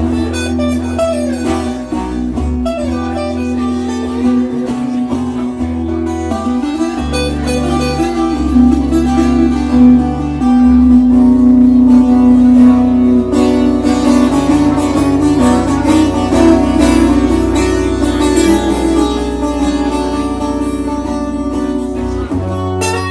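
Live band music: a guitar-led slow blues instrumental, with sustained guitar notes over a steady bass line and no singing.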